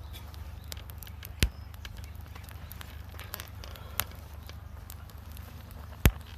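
Wood fire crackling in a small folding wood stove: scattered light ticks over a steady low rumble, with three sharp pops, about a second and a half in, at four seconds, and a loudest one near the end.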